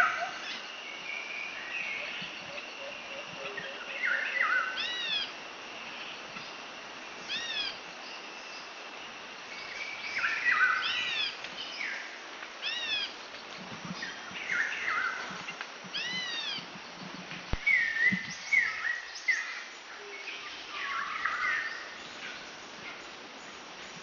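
Wild birds calling over a light background hiss: a call of arched notes repeats every two to three seconds among shorter chirps.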